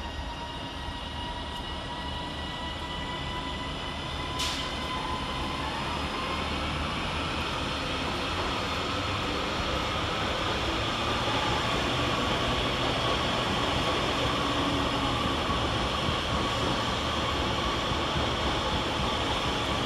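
Two coupled Class 331 electric multiple units pulling away, their traction motors whining in steady tones that creep slowly up in pitch as they gather speed, with wheel and rail noise growing louder. A single sharp click about four and a half seconds in.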